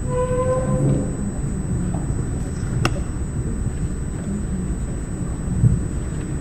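Room tone in a large hall: a steady low rumble with a faint high whine. A short pitched squeak-like tone comes in the first second, and a single sharp click about three seconds in.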